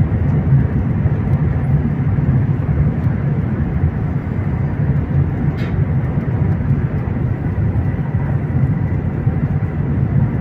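Steady rumble of a high-speed train running at speed, heard from inside the passenger cabin, with most of the sound low and even.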